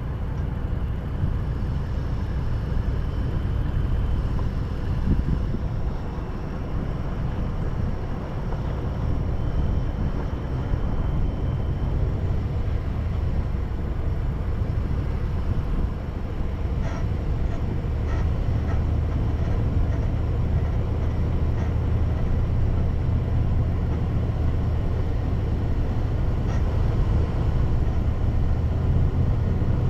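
Car driving along a road: a steady low rumble of engine and tyres, growing louder about halfway through, with a few faint clicks.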